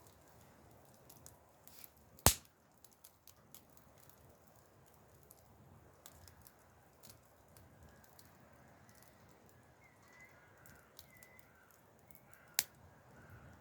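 Wood fire crackling with scattered small ticks and two loud sharp pops, one early and one near the end. Faint bird calls in the second half.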